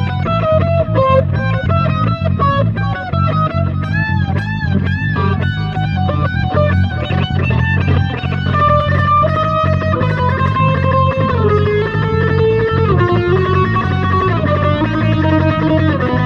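Rock instrumental break led by an electric guitar solo over bass and a steady backing: fast runs of notes at first, a wavering passage about four seconds in, then longer held notes that slide in pitch.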